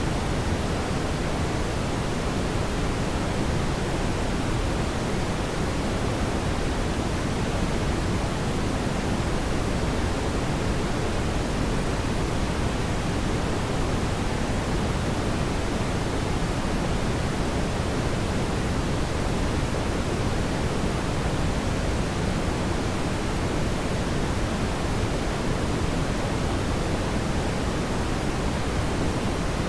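Fire burning in a fireplace, heard as a steady, even rushing hiss with no distinct crackles or pops.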